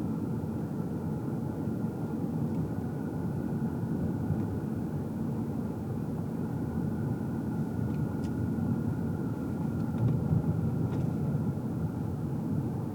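Steady low road and engine rumble inside a moving car's cabin, with a faint steady whine above it and a few light ticks near the middle.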